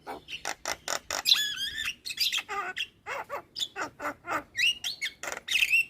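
Javan myna (jalak kebo) singing a fast, varied string of short whistled glides, chattering notes and harsh squawks.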